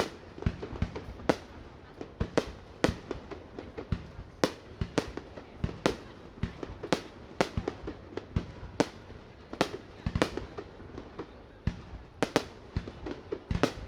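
Fireworks display: an irregular, rapid series of sharp bangs and cracks, often several a second, some louder than others.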